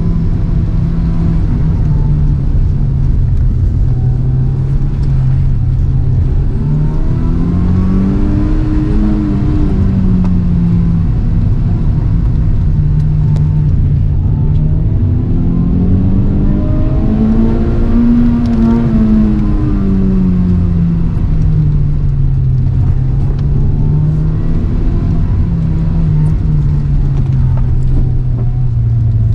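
Toyota AE111 Trueno's four-cylinder engine heard from inside the cabin, held in first gear at high revs during a sprint run, its pitch rising and falling as the car accelerates and slows. It climbs highest twice, about eight and eighteen seconds in.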